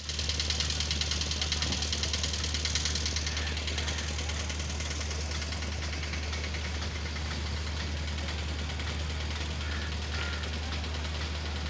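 A motor vehicle engine idling, a steady low hum throughout, with a fast high-pitched rattle over it for the first three seconds or so.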